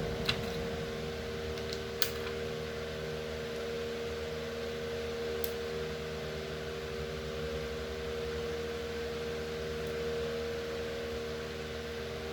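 Electric fan running with a steady hum. Two short light clicks come in the first two seconds.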